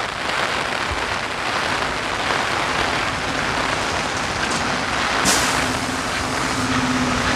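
Heavy rain falling steadily, a dense even hiss of rain on wet pavement. A low steady hum comes in beneath it about halfway through, and there is one sharp tick about two-thirds of the way in.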